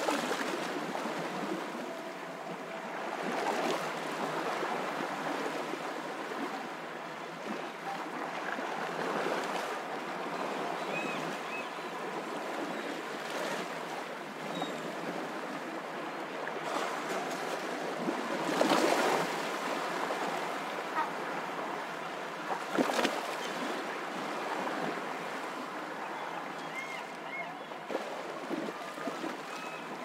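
Ocean surf washing up onto a sandy beach: a steady rushing wash that swells and eases every few seconds, loudest a little past halfway.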